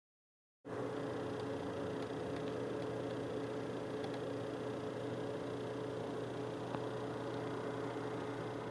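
Steady hiss with a low, even electrical-sounding hum, starting abruptly just under a second in and cutting off abruptly near the end.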